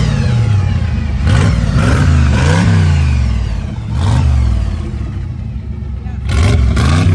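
Twin-turbo engine of a 1926 Ford T-bucket hot rod being revved in a series of quick throttle blips, the pitch climbing and falling back to idle each time. The blips come at irregular intervals, with a longer steady stretch before the last pair.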